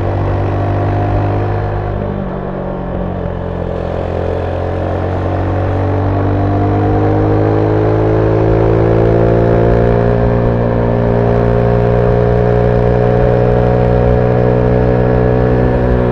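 Zontes 310V motorcycle engine with its stock exhaust, heard on board while riding. The engine note dips briefly about two seconds in, then climbs steadily in pitch under acceleration for several seconds and levels off.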